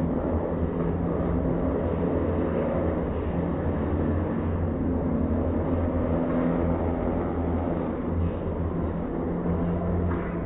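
Stunt car engines running steadily, several engine tones that rise and fall slightly in pitch.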